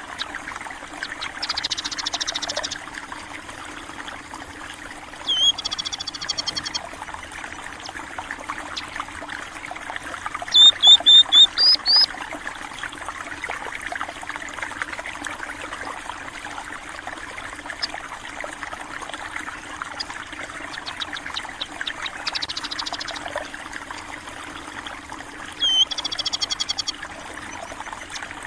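Water trickling and flowing steadily, with munias (burung pipit) calling in five short bouts of rapid high chirps, the loudest about ten seconds in.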